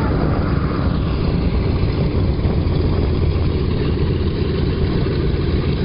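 Boeing B-17's Wright R-1820 Cyclone nine-cylinder radial engines running steadily at low power, a deep, even propeller-engine drone.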